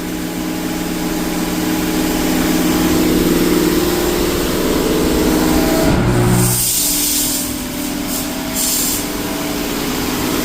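High-pressure water jets of a Mark VII AquaJet XT touchless car wash spraying over a steady machine hum. About six seconds in the spray changes to sharper hissing blasts, twice.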